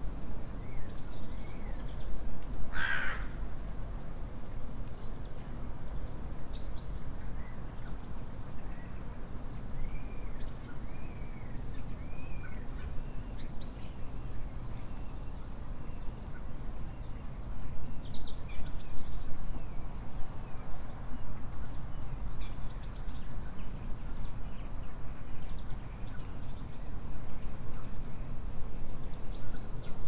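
Wild birds calling in winter: many short chirps and whistles from several small birds, with one loud, harsh call about three seconds in, over a steady low outdoor rumble.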